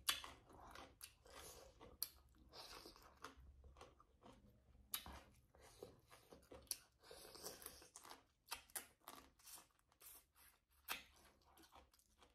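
Close-miked chewing and crunching of a mouthful of shredded papaya with squid, shrimp and crab, with many short wet clicks and brief crunches.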